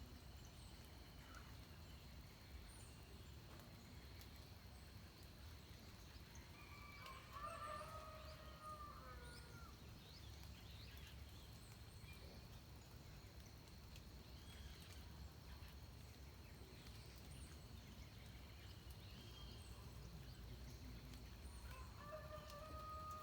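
Faint dawn birdsong in forest: a pitched, slightly falling bird call comes twice, about seven seconds in and again near the end, among scattered short high chirps from other birds. A faint steady high tone runs under them.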